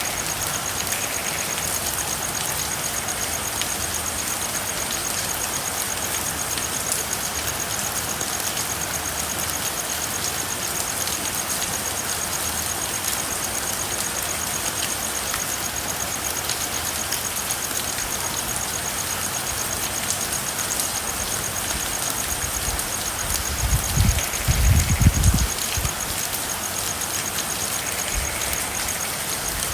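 Steady rain with many separate drops pattering, as on a car's roof and windows, over a thin steady high-pitched tone. A low rumble rises for about two seconds near the end.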